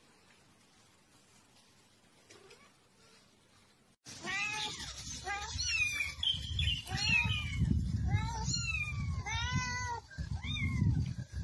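Kittens mewing over and over, starting abruptly about four seconds in: short high cries that rise and fall, sometimes two at once, over a low rumble.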